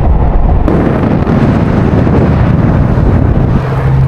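Car being driven, with road rumble and wind buffeting the microphone. About a second in, the hiss suddenly gets louder and wider, and a steady low hum joins near the end.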